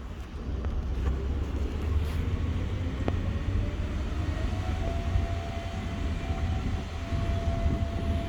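Jet fuel truck's engine running with a steady low rumble. About three seconds in, a faint whine rises slowly in pitch and then holds steady.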